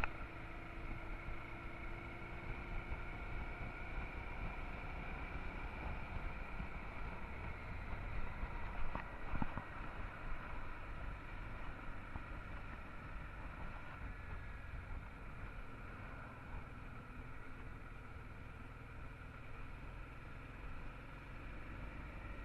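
Honda Transalp XL650's V-twin engine running steadily under way, mixed with steady wind and road noise, with a brief louder bump about nine seconds in.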